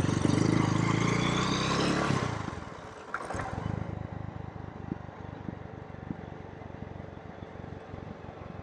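Motorcycle engine revving up, rising in pitch for about two seconds, then dropping back to a lower, even putter. Through it runs a rattling knock that the rider hears as 'kat kat' and cannot place on the bike.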